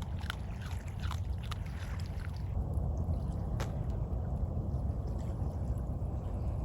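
A dog crunching dry food, a quick run of crisp crunches for about the first two and a half seconds, then a single click a second later, over a steady low rumble.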